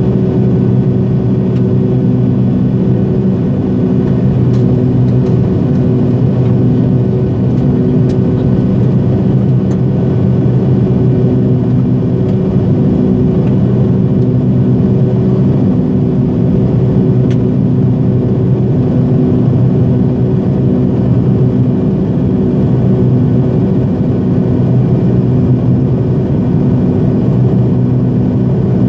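Cabin drone of an MD-80 airliner in flight, made by its rear-mounted turbofan engines: a loud, steady roar with several low humming tones, one of which pulses about every second and a half.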